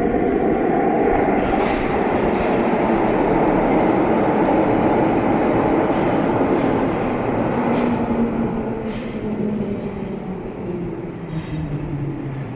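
London Underground 1972 Mk2 Stock tube train running through the platform with a loud rumble and a few clicks, easing off as it slows. From about halfway a high, steady squeal from the wheels or brakes sets in, while a low motor whine falls in pitch.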